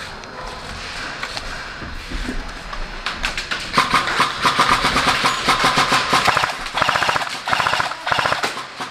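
Airsoft M249 Mk46 light machine gun firing full-auto in several long bursts, a rapid even stream of shots starting about three seconds in.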